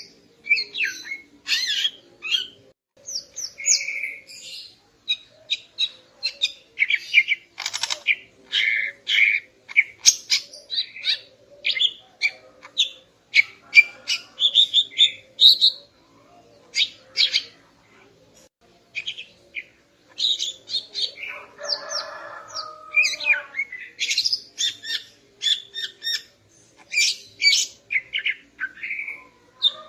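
Female greater green leafbird (cucak ijo) calling: a rapid run of short, high chirps and twitters, with a pause of a couple of seconds a little past halfway.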